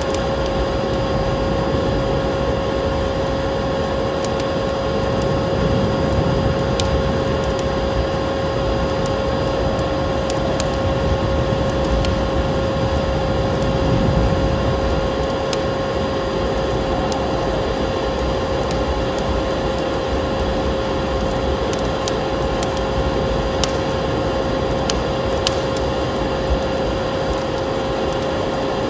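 Wood fire crackling with scattered sharp pops, over a steady rumble of blizzard wind that carries a constant tone.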